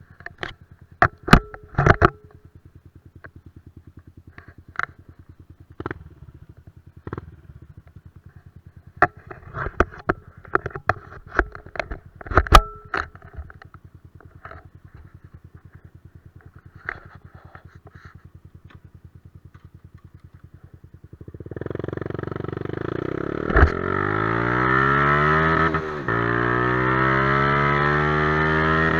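Yamaha Crypton X single-cylinder four-stroke through a titanium aftermarket exhaust, idling quietly with scattered sharp clicks and knocks. About 21 seconds in it is revved hard, the pitch rising and falling repeatedly, with one sharp crack along the way.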